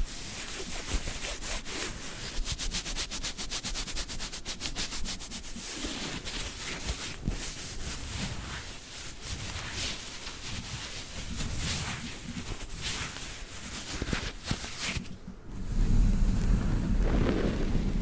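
Gloved hands rubbing and scratching, a close ASMR trigger: a quick run of fine scratches at first, then steady rubbing, with a louder low rumbling rub near the end.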